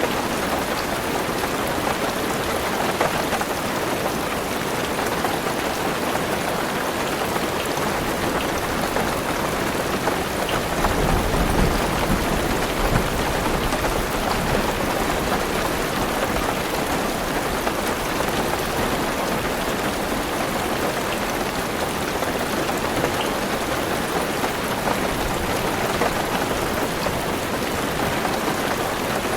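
Heavy rain drumming steadily on a car's roof and windows, heard from inside the car. A low rumble swells briefly near the middle.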